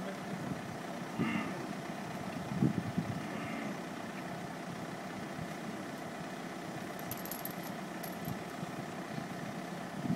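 An engine idling steadily, with a couple of brief louder sounds in the first three seconds and faint light clicks near the end.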